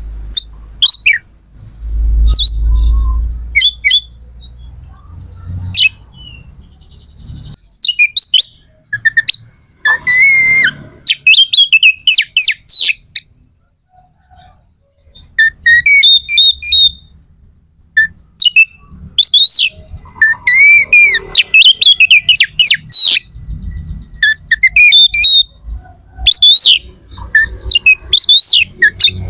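Bird calls: many short, sharp chirps and squawks in quick succession, loud and close, with a brief lull midway. A low rumble sits under the first few seconds.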